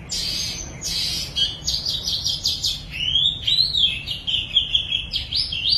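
A baby bird chirping: harsh, noisy high calls for the first second and a half, then a rapid run of short peeps that rise and fall in pitch.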